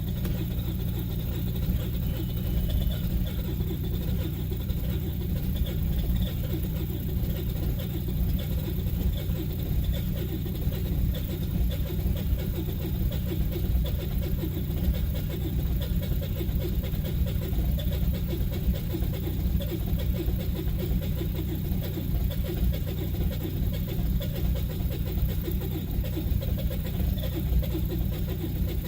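Engine idling steadily after a cold start.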